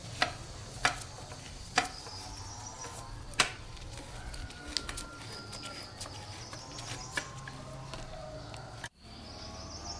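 Four sharp knocks in the first three and a half seconds, with fainter taps after them, over a steady low hum. Birds chirp in the background, and the sound cuts off abruptly near the end.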